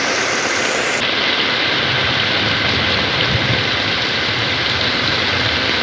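Heavy monsoon rain pouring onto standing floodwater, a loud, dense, steady hiss whose tone shifts suddenly about a second in.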